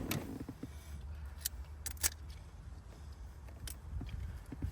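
A few sharp, separate clicks of small lock parts being handled, over a low steady hum.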